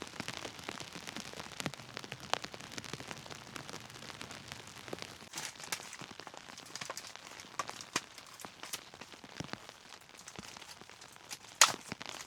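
Steady rain, with many scattered sharp clicks and pops over it and one louder crack near the end.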